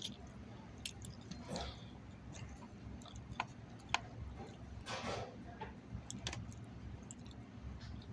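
A person chewing grilled chicken salad close to the microphone: soft, wet mouth sounds with a few small clicks.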